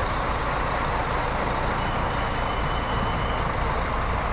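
Large diesel bus engines idling steadily, a continuous low rumble, with a faint high whine for about a second and a half midway.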